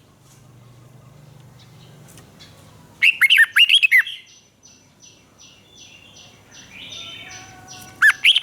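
Red-whiskered bulbul singing: a loud, quick phrase of rising and falling whistled notes about three seconds in, and another phrase starting near the end. Between them comes a faint, rapid series of short high notes.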